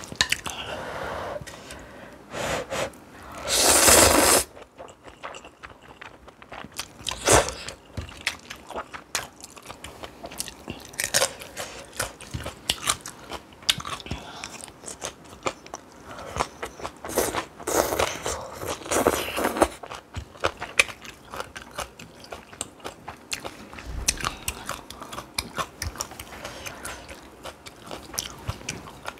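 Close-miked eating sounds: chewing and crunching through spicy stir-fried ramen with kimchi and chili peppers, with many small wet clicks and a louder burst of noise about four seconds in.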